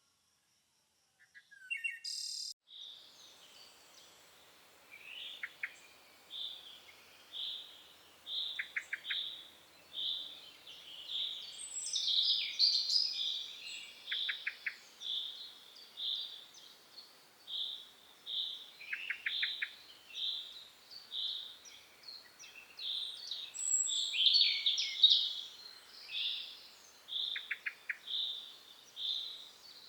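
Chorus of high chirping calls repeated about twice a second, several callers overlapping, with a few short lower rattling trills here and there. The chirping begins about three seconds in, after a moment of silence.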